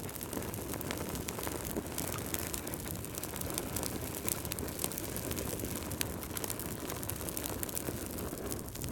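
Wood fire burning in a fireplace: many small, irregular crackles and pops from the logs over a steady low rumble of the flames.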